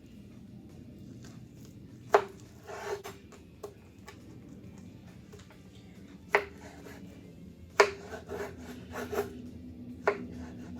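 A kitchen knife cutting through bananas and knocking down on a cutting board: four sharp knocks spread through, with softer scraping and rubbing between them.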